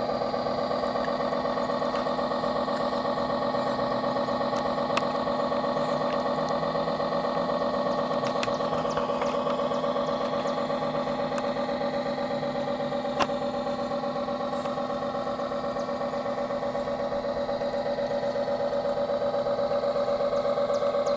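Radio-controlled model tugboat's drive running steadily: a constant-pitch mechanical hum with a brief sharp click about 13 seconds in, growing slightly louder near the end.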